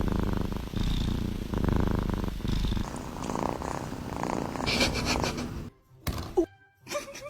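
A cat purring, a low pulsing purr in long phrases with short breaks between breaths. It cuts off suddenly about three-quarters of the way through, followed by a sharp click and a brief rising squeak.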